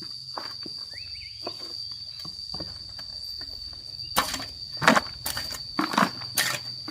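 A steady high insect drone over outdoor background, with a run of loud, irregular crunching knocks about two a second starting about four seconds in.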